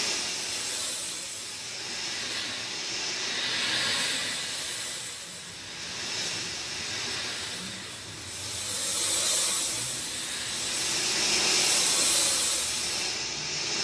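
Steady rain, a dense even hiss that swells and eases every few seconds.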